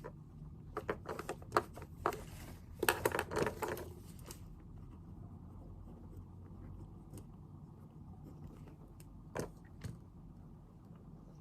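Desk handling sounds while studying: a quick run of small clicks and paper rustling in the first few seconds, then a low steady room hum with two soft knocks near the end.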